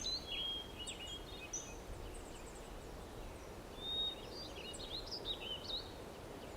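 Faint birdsong: small birds twittering in quick, high chirps, in two spells with a short lull in between.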